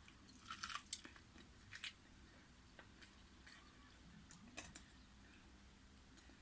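Faint chewing and crunching of food, in a few short, soft bursts spread across several seconds of near quiet.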